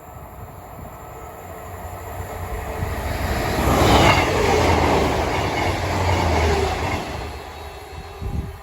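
A train passing close by on the line: its sound builds to a peak about four seconds in, holds until about seven seconds, then fades as it goes.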